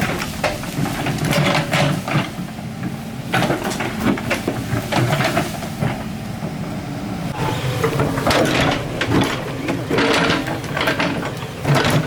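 Excavator working: its diesel engine runs steadily under irregular scraping and knocking as it digs.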